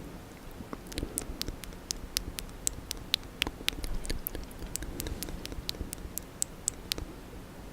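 Close-up wet mouth sounds: many irregular tongue and lip clicks and smacks in quick succession.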